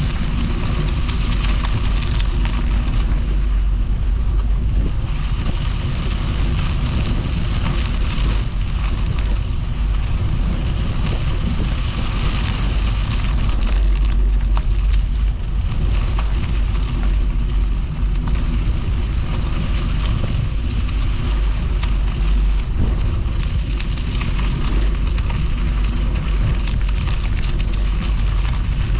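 Steady wind rushing over the microphone of a camera riding along on a moving bicycle, with a deep, even rumble underneath.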